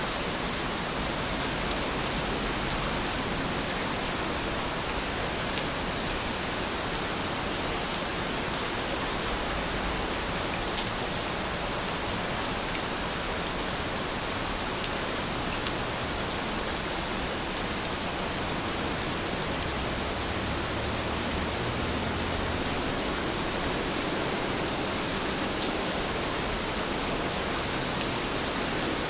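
Steady rain falling, an even unbroken hiss with faint scattered drop ticks.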